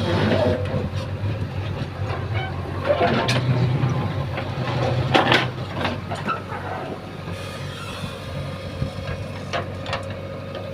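JCB 3DX backhoe loader's diesel engine running steadily under work, with a few sharp knocks and clanks about three, five and nine and a half seconds in.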